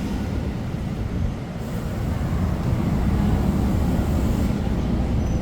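Train running with a steady low rumble that swells slightly midway.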